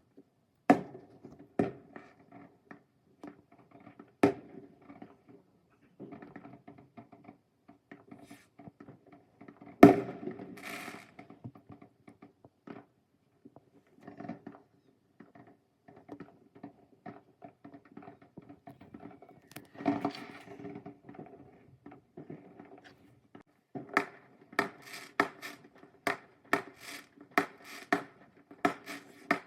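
Fireworks going off: scattered bangs and pops, with a loud bang about ten seconds in followed by a brief crackling hiss, then a fast run of bangs near the end.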